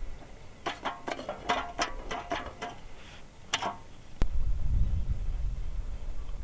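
A quick run of about ten sharp clicks over some three seconds, then one single sharp click followed by a low rumble like wind on the microphone.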